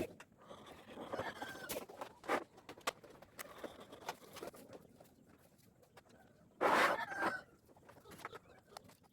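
Chickens clucking, with scattered knocks and taps around them; a louder burst of sound comes about two-thirds of the way through.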